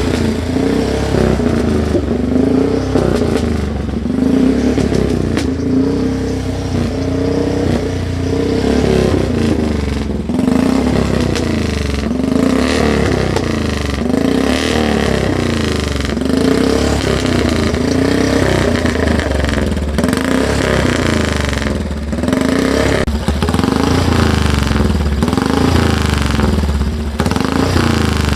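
Speedway motorcycle's single-cylinder engine running and being revved up and down over and over, roughly once a second, loud and unsilenced-sounding.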